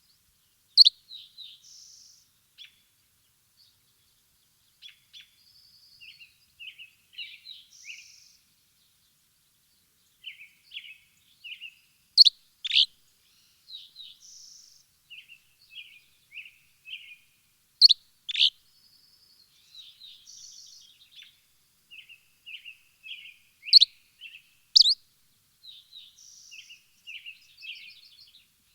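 Songbirds chirping and twittering. Loud, sharp down-slurred chirps come every five or six seconds, with softer, quicker twittering between them, over an otherwise silent background.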